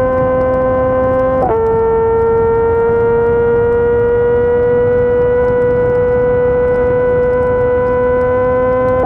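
Yamaha R6 600 cc inline-four sportbike engine running hard at high revs, its pitch climbing slowly under load. A quick upshift about one and a half seconds in drops the pitch a step, and it climbs slowly again.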